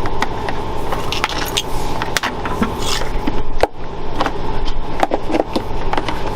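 Power cord and metal spring cord holder being handled, with irregular clicks and light metallic rattles, over a steady mechanical hum.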